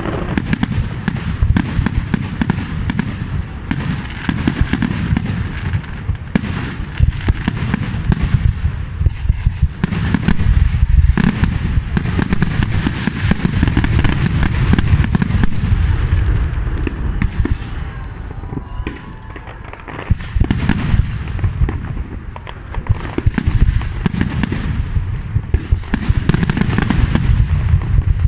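Aerial fireworks display: a dense, continuous barrage of shell bursts and crackling, with a short lull about two-thirds of the way through.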